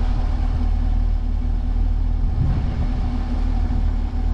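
The 2021 Camaro 2SS's 6.2-litre V8 idling steadily, a constant low rumble.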